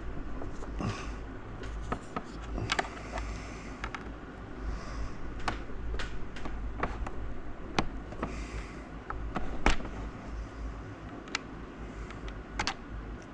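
A plastic end cap on a mini fridge's top being pried off with a tool: irregular sharp clicks and knocks of plastic, with a few short scrapes.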